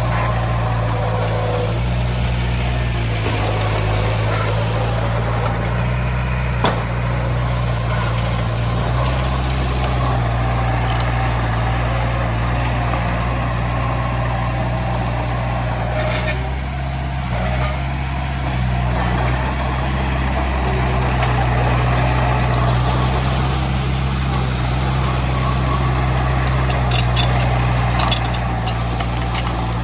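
Heavy diesel engine of earthmoving machinery running steadily under load, with a few sharp knocks and clanks.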